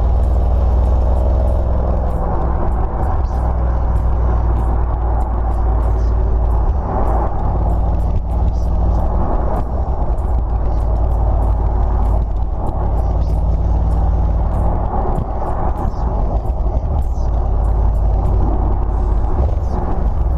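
Audi S6 (C7) twin-turbo V8 running through an exhaust with the mid muffler and resonators removed and an X-pipe fitted: a steady deep rumble that shifts a little in level now and then.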